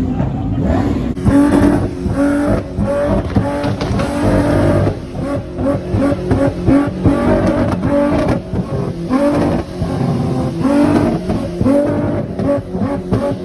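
Car engine revved high over and over, each rev held briefly at a steady pitch and then dropping before the next.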